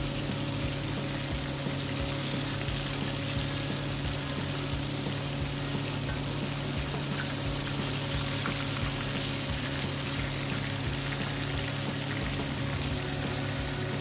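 Hot oil sizzling and crackling steadily around breaded venison backstrap pieces shallow-frying in a cast iron skillet.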